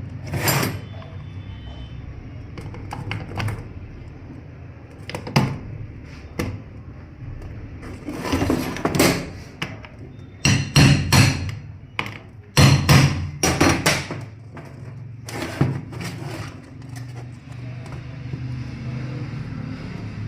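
Metal tools knocking and clattering in irregular hammer-like taps, some in quick clusters, over a steady low hum.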